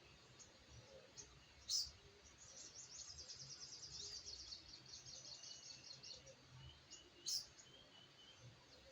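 Spiderhunter (sogok ontong) calling: two loud, sharp, high chips, about two seconds in and again near the end, with a rapid high chattering trill between them and softer scattered chirps.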